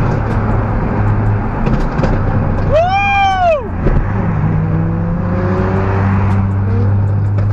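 Steady low drone of a car's engine and road noise in slow traffic. About three seconds in, a brief high cry rises and then falls in pitch.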